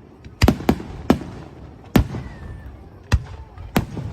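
Fireworks shells bursting in the air: three bangs in quick succession about half a second in, then single bangs at about two, three and nearly four seconds in, each trailing off in a short rumble.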